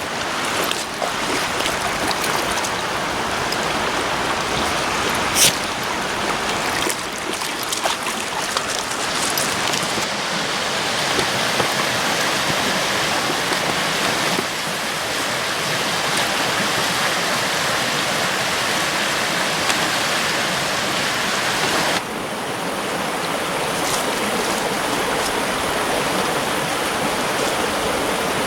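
Steady rushing of a creek's running water, with a sharp click about five seconds in.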